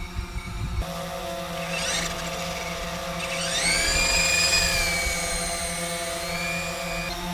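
The electric motors and rotors of a Syma S33 toy RC helicopter in flight make a steady high whine. About three seconds in the pitch rises quickly as the motors speed up, then holds and drops a little near the end.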